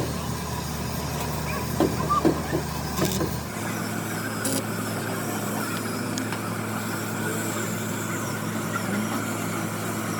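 A motor running steadily, with a few light knocks about two seconds in; the low hum changes abruptly about three and a half seconds in.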